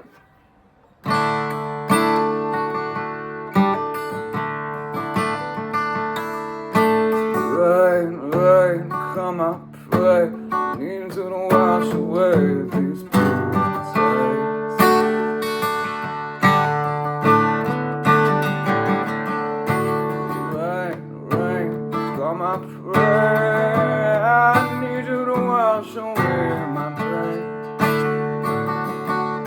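Acoustic guitar played as a song intro, starting about a second in with chords sounding steadily. A wavering melody line with vibrato rises above the chords twice.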